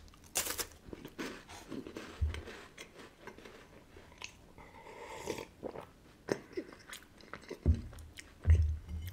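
Crisp wafer bitten and chewed close to the microphone, a sharp crunch on the first bite followed by scattered crackly chewing. A swallow from a drink comes about five seconds in, and a few low thumps follow near the end.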